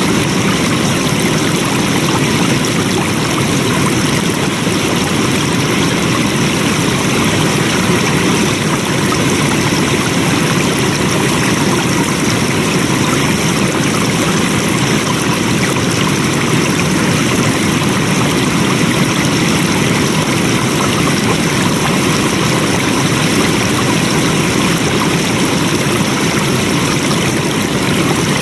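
Flowing water: a stream or small waterfall rushing steadily and evenly.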